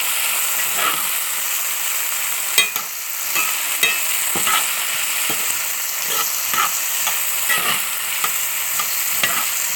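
Diced potatoes sizzling in hot oil in a skillet while a slotted spoon stirs them. Frequent irregular clicks and scrapes of the spoon against the pan sound over the steady sizzle.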